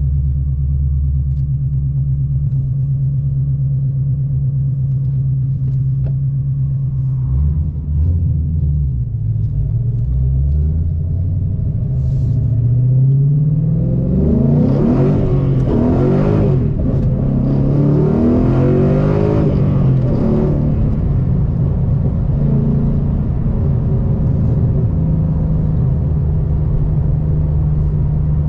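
2013 Ford Mustang GT's 5.0 Coyote V8 through a modified exhaust (BBK shorty headers, Gibson 3-inch X-pipe, cat delete, SVE mufflers) idling with a deep rumble, then revved up and back down twice about halfway through before settling back to idle.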